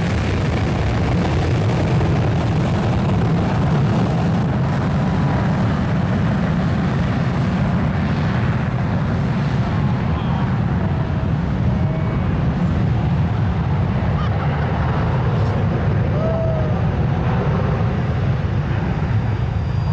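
Jet blast from an airliner's engines at takeoff thrust: a loud, steady, deep roar that holds at an even level throughout.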